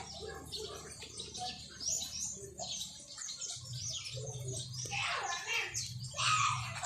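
Small birds chirping and twittering, many short quick calls throughout, with a low steady hum coming in about halfway.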